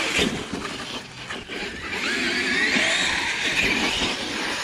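Brushless electric RC monster truck driving, its motor whine rising and falling with the throttle.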